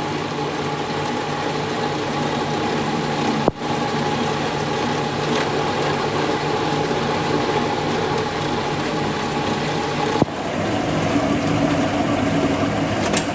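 An engine running steadily at a constant speed. It breaks off for an instant about three and a half seconds in, and its tone changes about ten seconds in.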